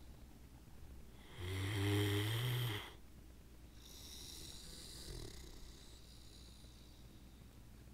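Great Dane snoring in its sleep: one loud snore about a second and a half in, lasting over a second, then a softer, hissing breath.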